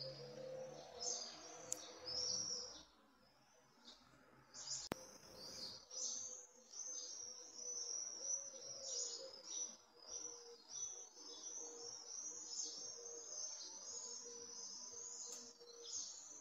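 Small songbirds chirping in a dense, rapid chorus of high notes, pausing briefly about three seconds in, over a faint steady hum. A sharp click about five seconds in.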